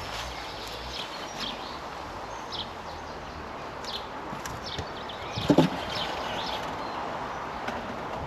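Small birds chirping on and off over a steady outdoor hiss, with one sharp knock about five and a half seconds in as the hive is handled.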